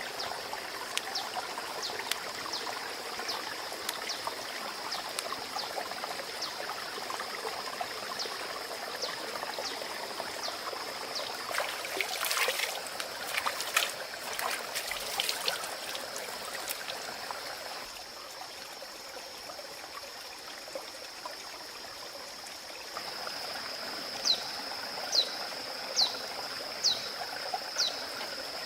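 Water running and trickling. A steady high-pitched whine runs over it, with short falling chirps about once a second, loudest near the end. A brief cluster of knocks and clatter comes near the middle.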